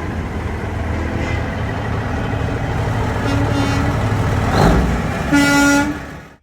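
1977 Kenworth semi truck's diesel engine running with a steady rumble, with short air horn toots about a second and three seconds in and a loud, longer air horn blast near the end before the sound cuts off suddenly.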